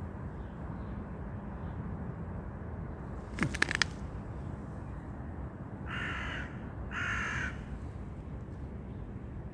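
A crow cawing twice, about six and seven seconds in, over a steady low background noise. About three and a half seconds in, a short rattle of sharp clicks is the loudest sound.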